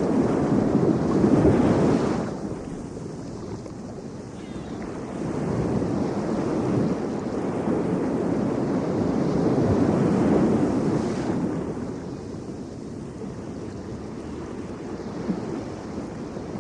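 Ocean surf: waves breaking and washing in as a steady rushing noise. It surges for the first two seconds, then builds again to a second crest around ten seconds in before ebbing.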